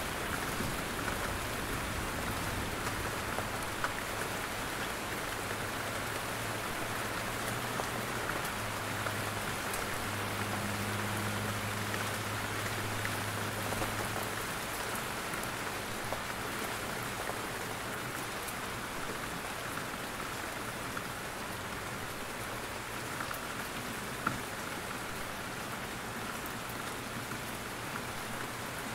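Steady rain falling in a forest, with scattered heavier drops dripping from the trees. A low rumble sits under the rain during the first half, then fades.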